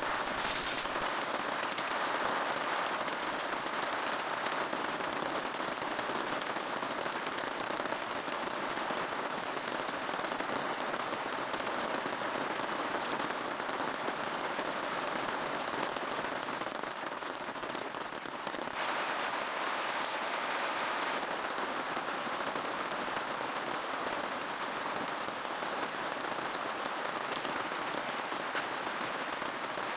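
Steady rain falling, a dense even patter of drops that swells slightly for a couple of seconds about two-thirds of the way through.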